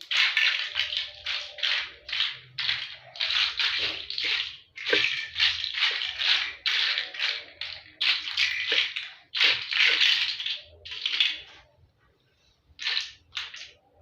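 A quick series of short rattling, scraping noises, several a second, that breaks off briefly near the end and then resumes.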